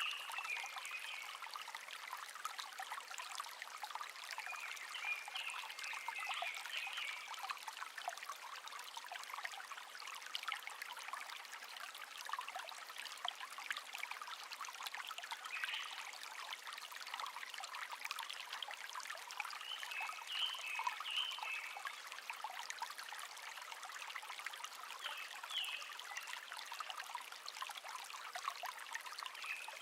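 A shallow stream trickling and babbling steadily over stones, with short phrases of wild bird song breaking in every few seconds.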